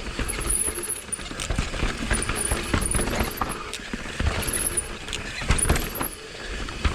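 Mountain bike clattering down a rough dirt trail: tyres on dirt, with many sharp clicks and knocks from the bike rattling over bumps, and a low rumble of wind on the microphone.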